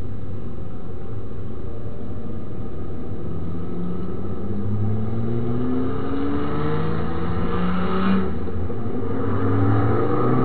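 MINI Cooper S engine accelerating, its pitch rising steadily, with a gear change about eight seconds in, after which it pulls up through the next gear.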